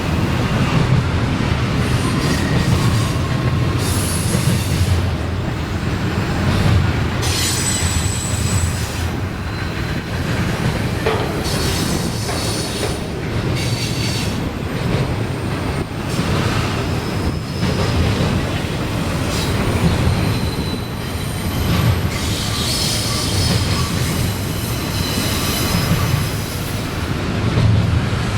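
CSX freight train rolling past with a steady low rumble, its wheels giving off intermittent high-pitched squeals.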